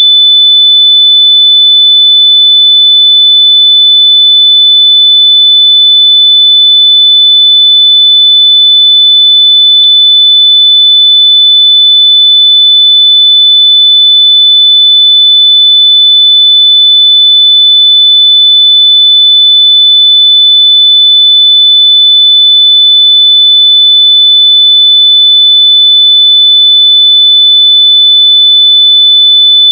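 A loud, continuous pure sine tone at about 3.5 kHz, held steady without a break: a test tone played at full volume so that lost wireless earbuds can be found by ear.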